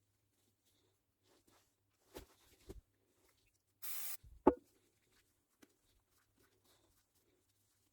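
Light clicks and taps of small parts and tools being handled during a shifter rebuild. About four seconds in there is a short steady hiss lasting about half a second, then a sharp click, which is the loudest sound.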